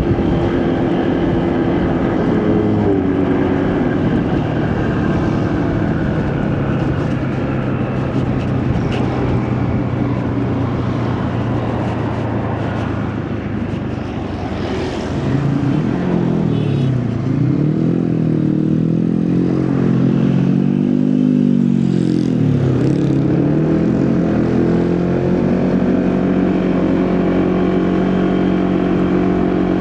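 Motorcycle engine running under way, with wind and road noise. About halfway through, the engine pitch drops and climbs again several times as the bike slows and speeds up.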